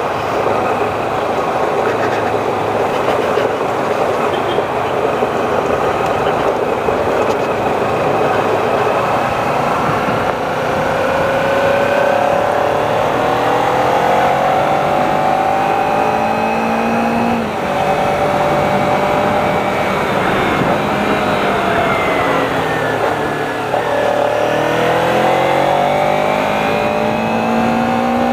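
Kawasaki Ninja 300 parallel-twin engine accelerating on the road, its pitch climbing, falling back at gear changes about two-thirds of the way through and again near the end, then climbing again. Heavy wind rush on the microphone runs under it.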